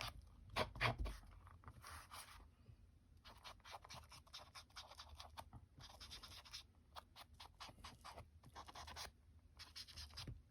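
Distress Oxide ink being rubbed onto paper edges in many short, dry, scratchy strokes, some in quick runs, with a soft knock about a second in.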